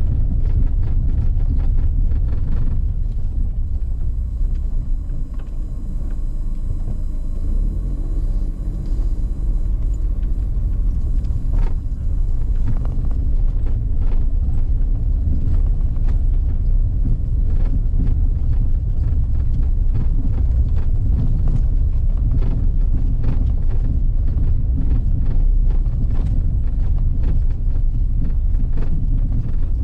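A vehicle driving along a forest road: a steady low rumble of engine and road noise, with many small knocks and rattles over it.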